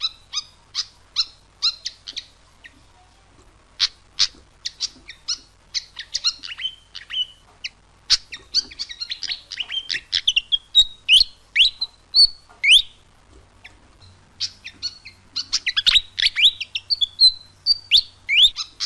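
Pied fantail calling: a run of sharp, evenly spaced chips, then squeaky chattering phrases with quick upward- and downward-sweeping whistles. The sound cuts off abruptly at the end.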